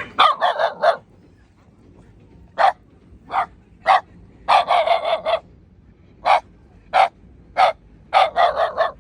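Shiba Inu barking over and over, in single sharp barks and quick runs of four or five.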